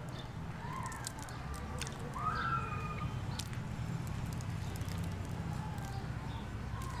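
Biting into and chewing a soft coconut-coated lamington sponge cake close to the mouth, with scattered wet mouth clicks, over a steady low hum of outdoor background and a few faint short whistles.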